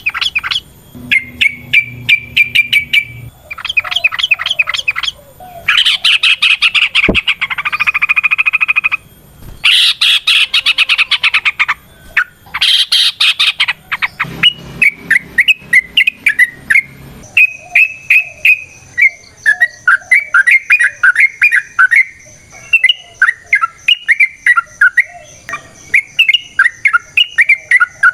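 Yellow-vented bulbul (trucukan) singing: loud bursts of rapid chattering rattles in the first half, then a long run of quick, repeated chirping notes, a few to the second.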